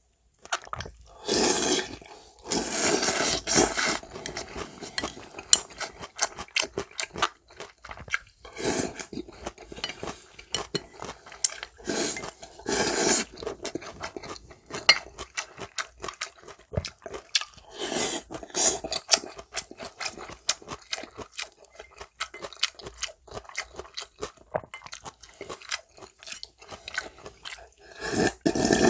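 Close-miked eating of janchi guksu: several long slurps of thin wheat noodles and broth, with crunchy chewing of cucumber and kimchi and short clicks of utensils against the bowl in between.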